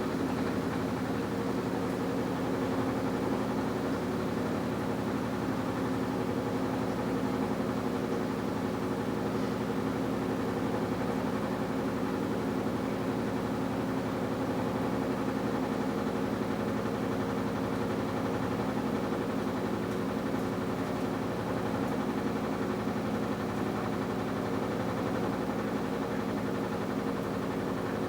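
AQUA washing machine's direct-drive inverter motor running steadily, an even hum with a few constant tones that holds without a break or change in pitch.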